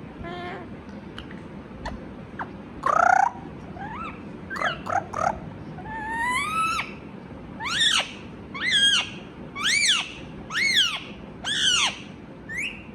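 Indian ringneck parrot calling: a loud call about three seconds in and a few short chirps. Then a series of six repeated calls, each rising and then falling in pitch, about one a second.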